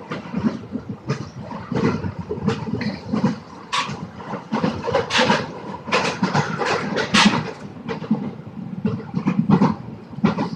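Train noise: an irregular clatter of short knocks and rattles, with no steady tone.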